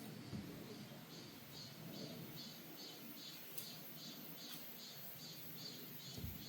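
A faint, high chirping call repeating in an even rhythm, about three chirps a second, with a couple of soft low thumps.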